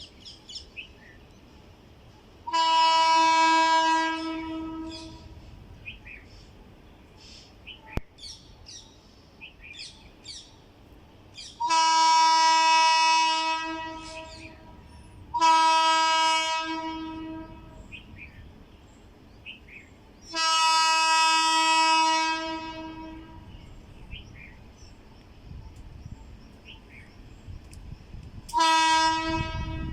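WAP-5 electric locomotive's horn sounding five long, steady blasts, the last one near the end, with birds chirping between them. A low rumble rises over the last few seconds.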